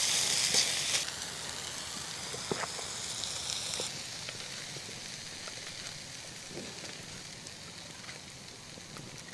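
Food sizzling in a large frying pan over a wood fire. The sizzle is loud for about the first second, drops sharply, then keeps dying away, with a few faint clicks.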